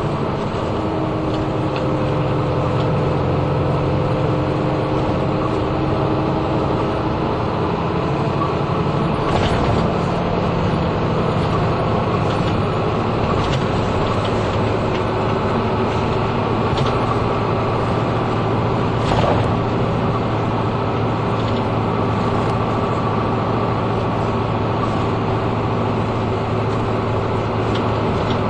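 Route bus driving, heard from inside the passenger cabin: the engine runs over steady road noise, its pitch shifting in the first several seconds and then holding steady. A couple of brief knocks or rattles come midway.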